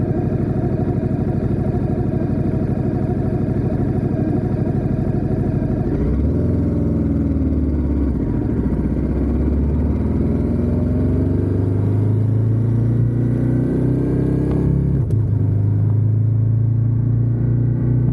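Ducati Diavel 1260S's 1262 cc Testastretta L-twin engine running steadily, then about a third of the way in pulling away and accelerating, its pitch rising for several seconds. Near the end the pitch drops suddenly at a gear change, and the engine settles into steady running.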